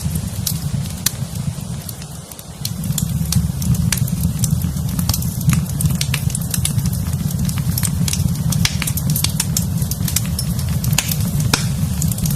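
Wood fire burning in a fireplace: a steady low rumble with frequent, irregular sharp crackles and pops. The rumble dips briefly about two seconds in.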